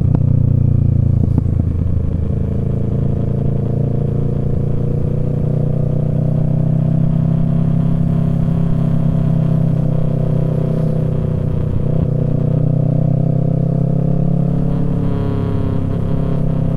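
Kawasaki Z650's parallel-twin engine through a Yoshimura Alpha exhaust, running at a fairly steady cruise. The pitch dips slightly about two seconds in, then rises and falls gently.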